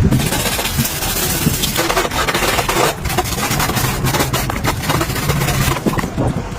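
Motorcycle engine running, a steady hum with irregular ticks and scrapes on top.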